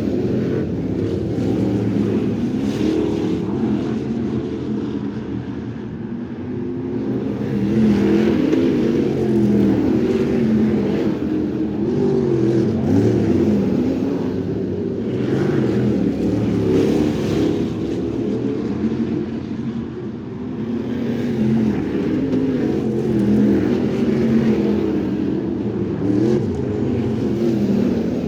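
Crate sprint car engine running hard on a dirt oval, rising and falling in loudness with clear dips about 6 and 20 seconds in.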